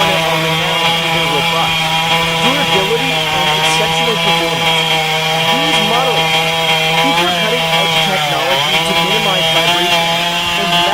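Chainsaw running at high speed while cutting through wood, its engine pitch dipping briefly under load about eight seconds in.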